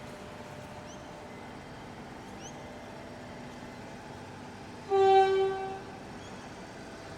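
A train horn sounds one loud steady note for about a second, about five seconds in, over the steady hum of a train at the station.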